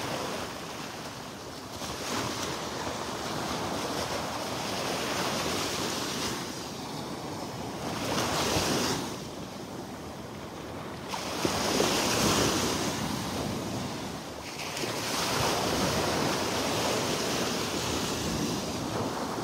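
Gulf of Mexico surf washing onto the beach, a steady rush that swells and eases every few seconds as waves come in, with wind buffeting the microphone.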